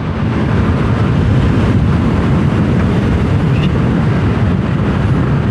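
Wind and road noise while riding a Yamaha Aerox 155 scooter: a steady, loud, low rumble of wind buffeting the camera's microphone.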